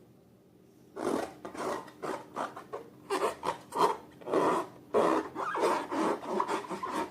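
Slime being squished and kneaded by hand: irregular wet squishing and rubbing noises that start about a second in and come in quick uneven bursts.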